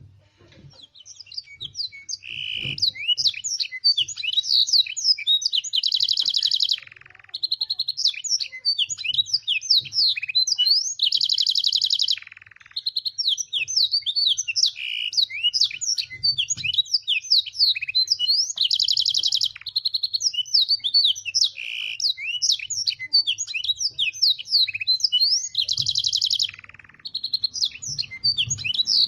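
Canary singing a long, fast song of chirps and quick sweeping notes, broken every several seconds by a buzzy rolled trill. The song is filled with phrases copied from the blackthroat.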